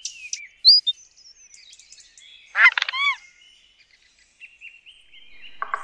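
Birds calling: short high chirps, and about three seconds in a louder burst of harsh, downward-sliding calls. Near the end a fast, even rattle of about a dozen pulses a second sets in.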